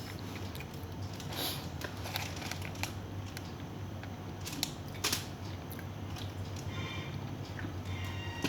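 Small clicks and crackles of food being handled and eaten, a few sharper clicks among them, over a low steady hum.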